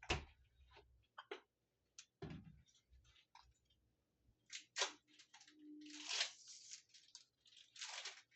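A child chewing a chewable medicine tablet at close range: scattered soft crunches and clicks, with two longer hissing rustles about six and eight seconds in.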